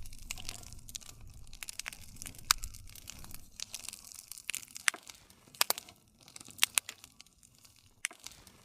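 Wood campfire crackling: irregular sharp pops and snaps several times a second over a low rumble of the flames, which dies down about six seconds in.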